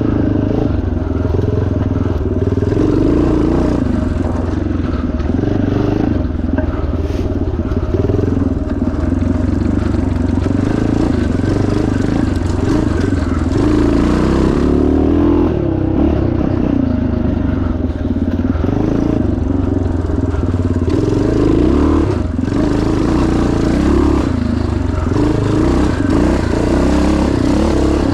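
1977 Yamaha TT500's single-cylinder four-stroke engine running hard under load, its revs rising and falling with the throttle.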